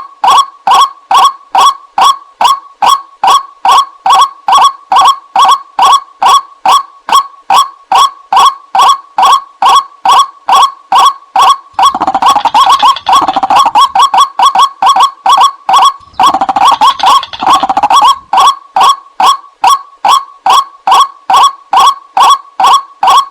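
White-breasted waterhen (ruak-ruak) calling: a loud, even series of short, nasal 'kwak' notes, about three a second. About halfway through, a denser burst of overlapping calls fills in for several seconds, as if a second bird joins, then the steady series resumes.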